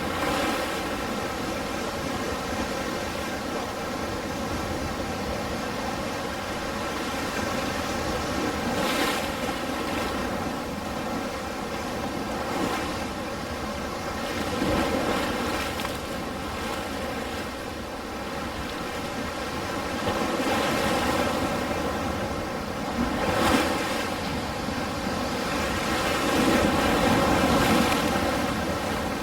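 Ocean waves breaking and washing on the shore in a continuous surf noise, swelling and easing every few seconds.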